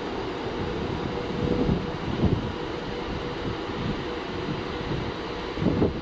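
A train moving through the station: a low rumble with a steady whine, and a few low knocks from the wheels, the loudest near the end.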